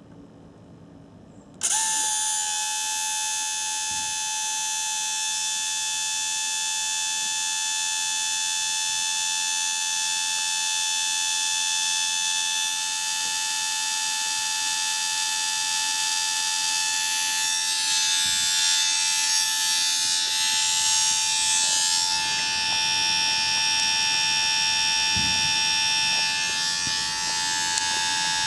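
A small electric motor switches on about a second and a half in and runs steadily with a high, even whine.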